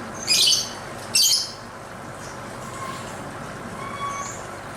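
Lovebird giving two loud, harsh squawks about a second apart, followed by a few faint short chirps, over a steady background noise.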